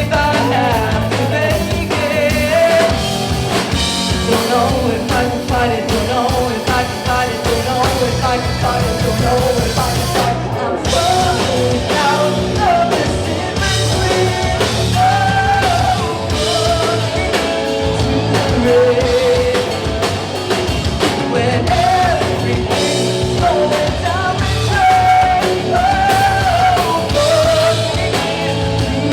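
Live rock band playing a song, with a singer, electric guitars and drum kit.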